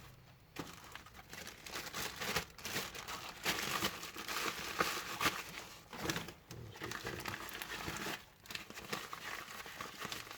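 Plastic bags of spare parts being handled and crinkled, an irregular crackling with small clicks that pauses briefly near the end.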